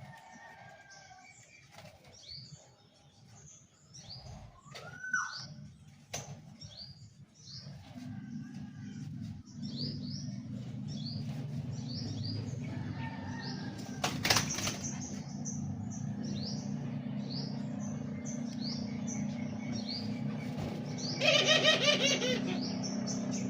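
Birds chirping over and over in short high falling notes, with a brief burst of wing flapping near the end that is the loudest sound. A steady low hum comes in about a third of the way through, and there is one sharp click around the middle.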